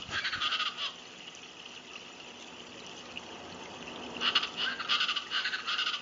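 A chorus of East Brazilian chachalacas calling, loud and rapidly repeated. The calling stops about a second in and starts again about four seconds in.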